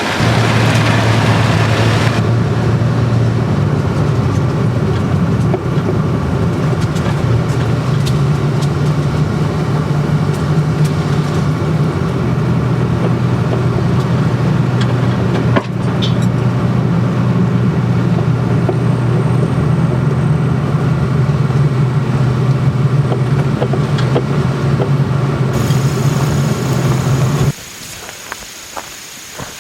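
A car's engine and road noise, steady and loud, with a low hum that shifts a few times as the drive goes on. Near the end it cuts off abruptly to a much quieter scene with a few light ticks.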